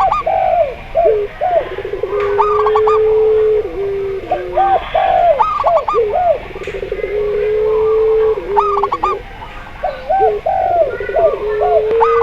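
Several doves cooing together: a zebra dove, a spotted dove and a puter pelung (a domestic turtle dove kept for its long, drawn-out coo). A long, steady, low coo is held for about two seconds and dips at the end, recurring about every four seconds. Between those, quick runs of short looping coos rise and fall.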